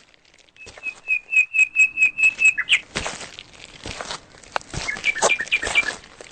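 A bird singing a quick run of about ten evenly repeated, loud whistled notes, about five a second, ending in a short down-slur. A shorter burst of similar notes follows near the end. Footsteps crunching on the forest floor run underneath.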